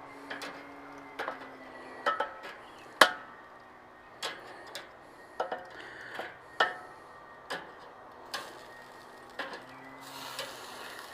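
Metal tongs clicking and clanking against the Weber kettle's cooking grate as chicken legs are turned over: a dozen or so sharp, irregular clicks with a short metallic ring, the loudest about three seconds in.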